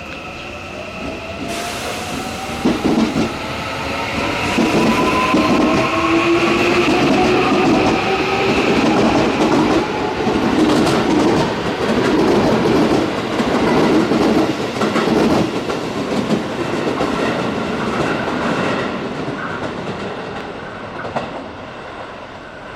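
Electric train running past the platform. A motor whine rises in pitch over the first several seconds, with wheels clattering over the rail joints. It builds to a loud peak and then fades away near the end.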